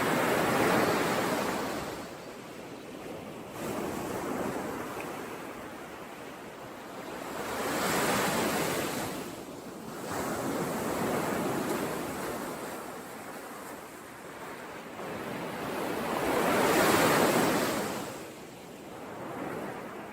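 Sea waves breaking on the shore, each wash swelling and fading over a few seconds. The loudest surges come about a second in and again near 17 seconds.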